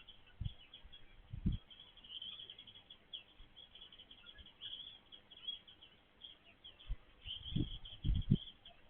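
Small birds chirping in a steady, busy stream of short high-pitched notes. A few brief low thumps cut in about half a second in, at about a second and a half, and three times near the end.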